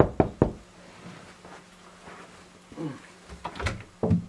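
Knocking on a door: a quick run of knocks at the start, then a quieter stretch with a few small bumps and a single thud near the end.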